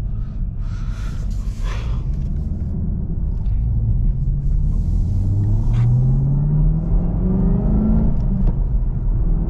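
Camaro ZL1's supercharged V8 heard from inside the cabin, running low and steady, then revving up smoothly from about four seconds in, its pitch rising and levelling off near the end.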